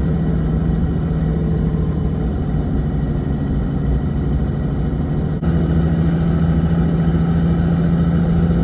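The Cummins 6.7 L inline-six turbo-diesel of a 2011 Ram 2500 pulling steadily while driving, heard from the cab. About five seconds in there is a brief dip in the sound, and then the engine drone comes back slightly higher and stronger.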